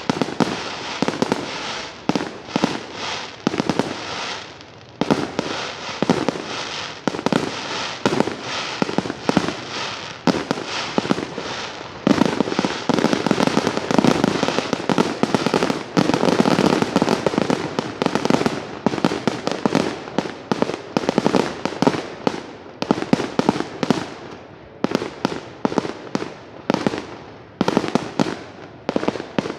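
Fireworks display: a continuous, rapid barrage of bangs, densest and loudest through the middle and spacing out near the end.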